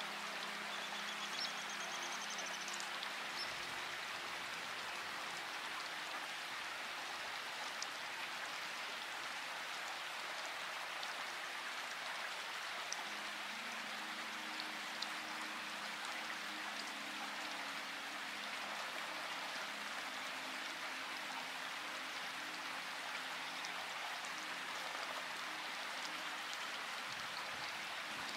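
Steady rain falling, an even hiss with scattered sharper drop ticks. Faint low steady tones sit underneath, fading out about three seconds in and coming back around thirteen seconds in.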